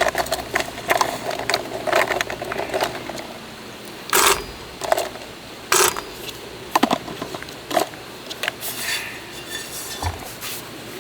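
Irregular knocks, clinks and rattles of metal camp cooking gear being handled, some strikes ringing briefly.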